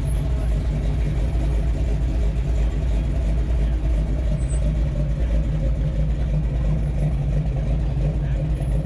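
Classic muscle car's engine running at low speed with a deep, steady exhaust note.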